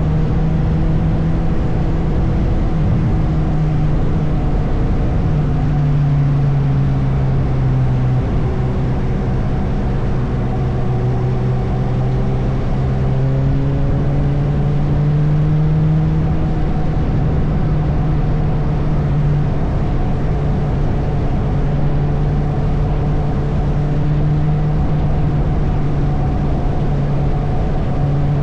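Suzuki motorcycle engine running while riding through traffic, its note rising and falling with the throttle, over a steady rush of wind and road noise.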